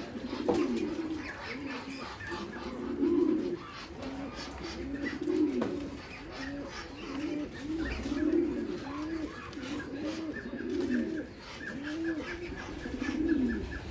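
Several pigeons cooing: low, overlapping coos, each rising and falling in pitch, repeated about once a second with no break.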